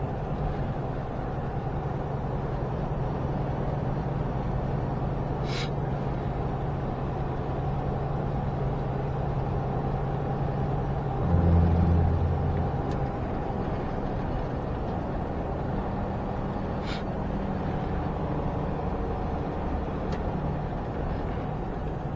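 Semi-truck's diesel engine and road noise heard from inside the cab while driving at highway speed, a steady drone. About eleven seconds in, a louder low rumble swells for about a second, and two faint short clicks come through in between.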